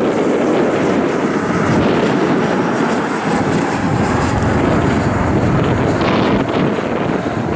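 Steady rushing jet noise of an Envoy regional jet on its arrival, mixed with wind buffeting the microphone.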